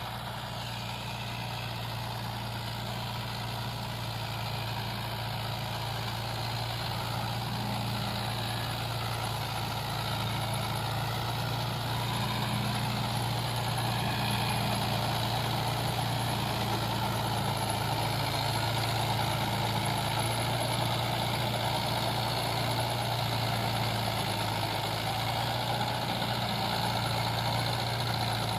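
Mahindra tractor's diesel engine running steadily while pulling a plow, growing gradually louder.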